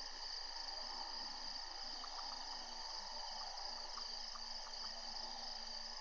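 Steady evening chorus of insects such as crickets, with a continuous high trill and a few short chirping ticks in the middle.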